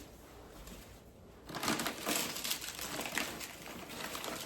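Plastic shopping bag rustling and crinkling as it is opened and handled, starting about one and a half seconds in.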